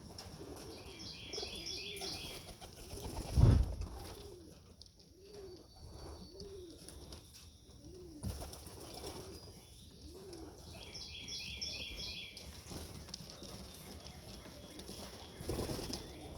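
Domestic pigeons cooing, a string of short rising-and-falling coos about once a second, with a brief burst of wing flapping about three and a half seconds in. Short high twittering chirps come twice, near the start and about two-thirds of the way through.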